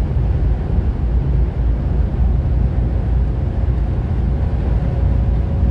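Mercedes-Benz W126 500 SE's V8 engine and tyres heard from inside the cabin while cruising at highway speed: a steady low rumble with road noise, and a faint steady whine that comes in about halfway through.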